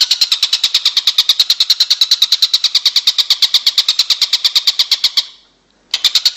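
Recorded songbird song played as masteran, training audio for caged songbirds: a fast, even, high-pitched trill of about ten notes a second. It cuts out for under a second about five seconds in, then resumes abruptly.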